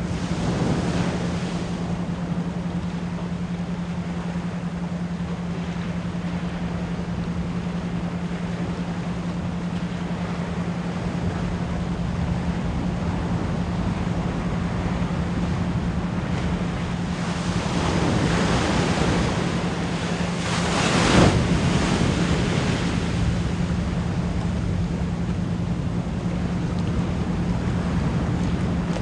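Ocean waves washing and breaking, swelling about a second in and again around 18 seconds, with the loudest break at about 21 seconds. Under the surf a steady 174 Hz pure tone runs throughout, pulsed as an isochronic beat at about 10 to 16 pulses a second.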